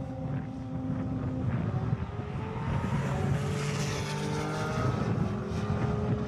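Sports car engines running hard, several engine notes at once rising and falling in pitch, over road and wind noise.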